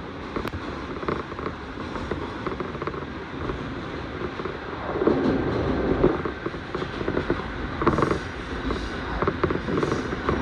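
Commuter train running, heard from inside the carriage: a steady rumble of wheels on the rails with light creaks and rattles from the car body. The rumble swells louder twice, about halfway through and again a few seconds later.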